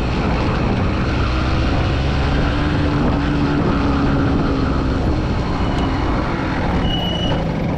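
Small 125 cc motorcycle engine running steadily at low speed, its note rising slightly and settling again.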